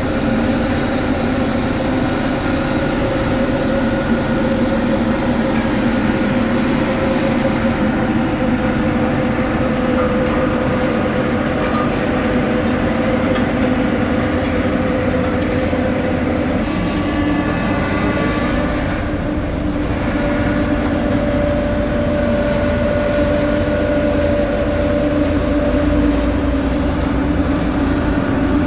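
Heavy diesel road-building machinery running steadily at a paving site, a constant engine drone whose pitch shifts about two-thirds of the way through.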